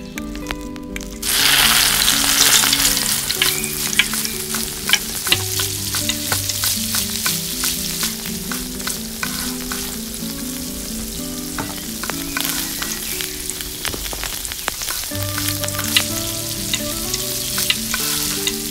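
Food frying in hot oil in a miniature pan. A sudden sizzle starts about a second in, loudest at first, then settles into a steady sizzle with frequent sharp crackles and pops.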